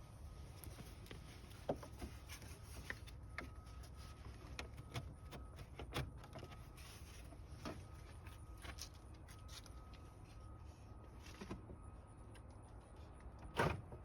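Scattered light clicks and knocks of hard plastic being handled as the radiator fan shroud's retaining tabs are pulled back and the fan assembly is worked loose, over a low steady rumble; the sharpest knocks come near the end.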